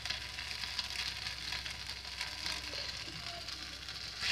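Poha batter frying in an oiled pan, a steady sizzling hiss. Near the end a spoon starts pushing the batter around and the sound gets a little louder.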